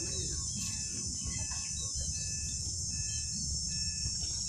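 Steady high-pitched chorus of insects, with scattered bird chirps and a short two-note peep repeating about every three-quarters of a second.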